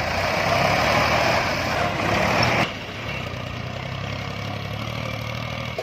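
Mahindra 585 DI Power Plus tractor's diesel engine running under a heavy trolley load. A loud, rough stretch cuts off suddenly about two and a half seconds in, leaving a quieter, steady engine note.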